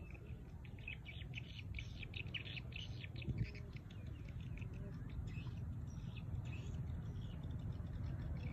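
Birds chirping in quick runs of short high notes, over a steady low rumble. A single brief knock sounds a little over three seconds in.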